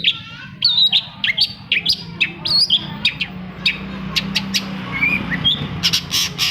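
Long-tailed shrike (cendet) singing a fast, loud run of sharp chirps, upward-sweeping whistles and clicks, over a steady low hum.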